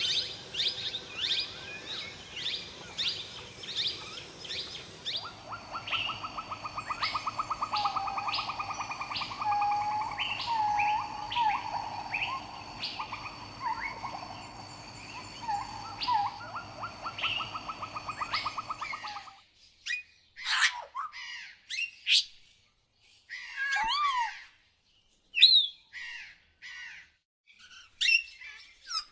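Several birds calling and singing together in a forest, with repeated chirps and a fast trill. About 19 seconds in the background noise drops away, leaving a few separate sharp calls.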